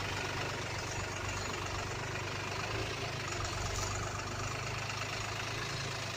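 Truck engine running steadily, a low, even rumble with rapid firing pulses.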